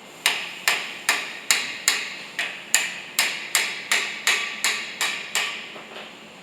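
Hammer blows on metal: about fourteen evenly spaced strikes at roughly three a second, each with a short ring, stopping about a second before the end.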